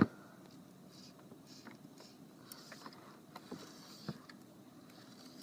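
Fly fishing from a kayak: a sharp click at the start, then sparse small clicks and knocks with faint soft swishes in between, the sound of rod, line and gear being handled while casting.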